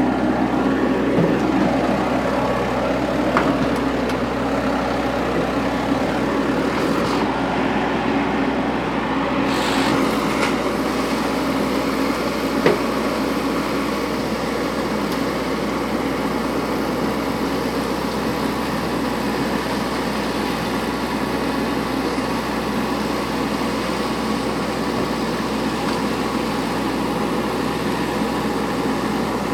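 An engine running steadily, with a single short knock about halfway through.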